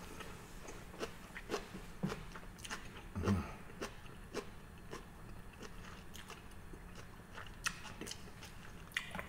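A person chewing a mouthful of sushi roll close to the microphone: irregular short, sharp mouth clicks and small bites, with one louder low thump a little over three seconds in.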